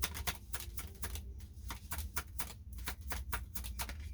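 Tarot cards being shuffled and handled: a quick, irregular run of crisp card clicks and slaps that stops shortly before the end, over a steady low hum.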